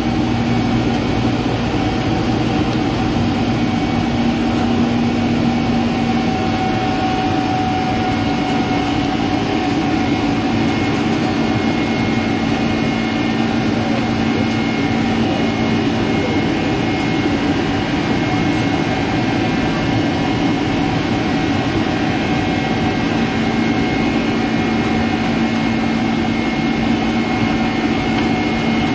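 Steady cabin noise of a Boeing 767-300ER on the ground: a constant engine and air-system drone with a low rumble and a few steady humming and whining tones on top, holding level throughout.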